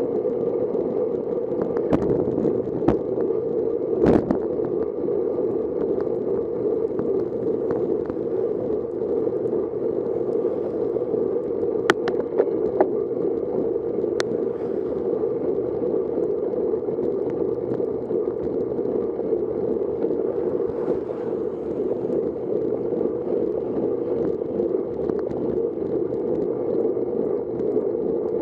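Steady rush of wind and road noise from a road bicycle in motion, heard on the rider's camera microphone. A few sharp knocks come about two to four seconds in and again around twelve to fourteen seconds in.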